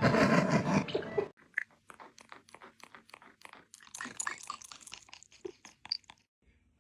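A parrot crunching and biting at something hard: irregular sharp cracks and clicks for several seconds. A loud, dense noise cuts off abruptly about a second in, before the crunching starts.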